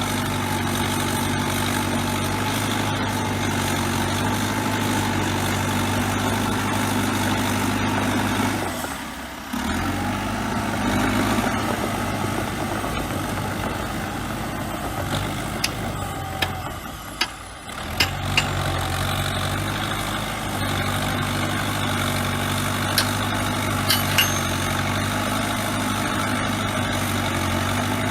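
Crawler bulldozer's diesel engine running steadily, with several short sharp knocks in the middle and near the end. The engine sound drops away briefly twice.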